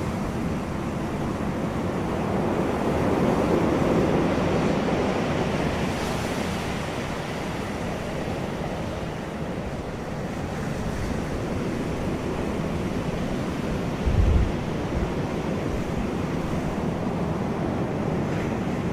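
Wind blowing steadily outdoors, a rushing noise that swells for a few seconds near the start. A brief low buffet of wind hits the microphone about fourteen seconds in.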